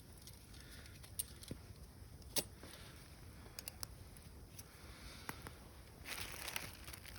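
Faint, scattered clicks and small knocks of cooking gear and ingredients being handled, the sharpest about two and a half seconds in. A soft rustling starts near the end.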